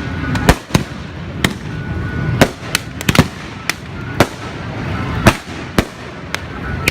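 Fireworks going off: a dozen or so sharp bangs and cracks at irregular intervals, some close together.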